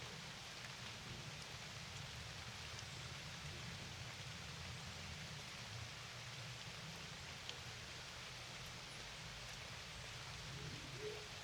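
Steady rain falling, an even hiss with occasional single drop ticks, over a faint low rumble.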